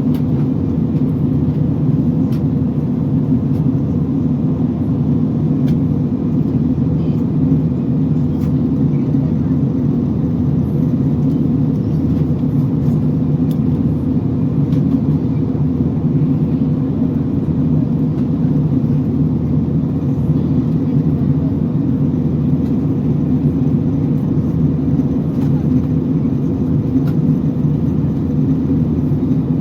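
Steady, even drone of airliner cabin noise: jet engines and airflow heard from inside the passenger cabin, deep and unchanging throughout.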